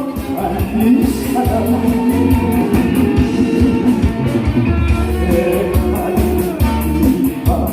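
Live band music with a singer, over guitar, bass and a steady drum beat.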